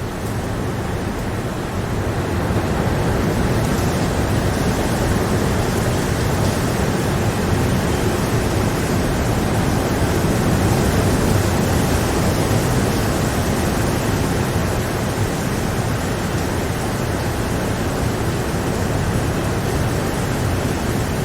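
Steady heavy rain, a dense even hiss that swells a little about two seconds in and then holds.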